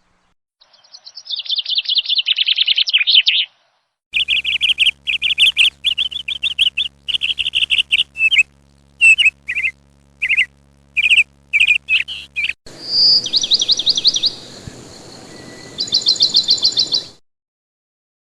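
Small birds chirping in rapid trills of high notes, repeated in quick runs. The sound stops and starts again abruptly twice.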